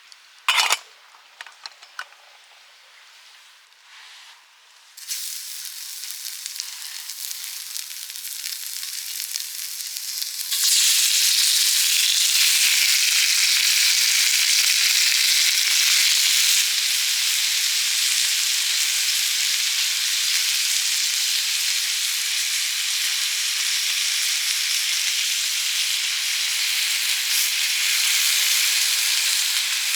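Food frying in a hot frying pan. A sharp knock comes about half a second in, followed by a few small clicks. Sizzling starts about five seconds in, builds, and jumps much louder about ten seconds in, then sizzles steadily.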